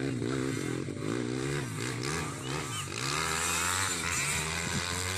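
Motocross bike engines revving up and down on the track, their pitch rising and falling again and again, with more than one engine heard at once.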